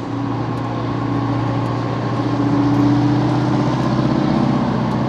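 Fire truck engine running as the truck passes, a steady mechanical hum that grows louder about halfway through.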